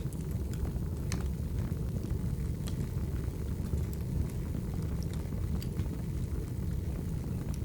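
Firewood burning: a steady low rumble of the fire with scattered sharp crackles and pops at irregular moments.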